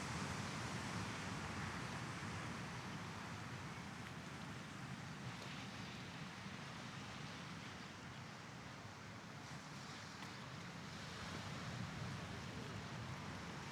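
Small Mediterranean waves washing onto a sandy beach, with wind on the microphone; the wash swells and eases slowly, quietest a little past the middle.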